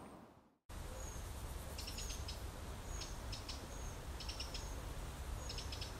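Outdoor ambience of small birds chirping. Their short, high chirps come in little clusters about once a second over a steady low rumble, starting after a brief gap about half a second in.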